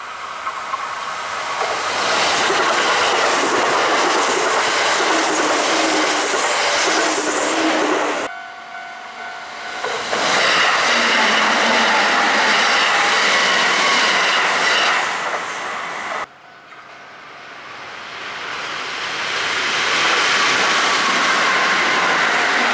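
Kintetsu electric trains passing close by at speed on the Osaka Line, with a level crossing warning bell ringing steadily. The loudness drops off suddenly twice, about eight and sixteen seconds in, and builds again as the next train comes through.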